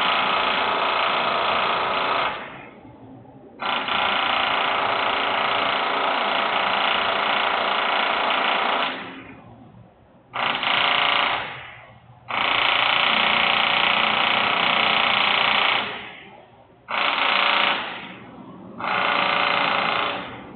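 Loud industrial machinery noise, a harsh grinding-like running that comes in bursts of one to five seconds, each starting abruptly and dying away, with short gaps between.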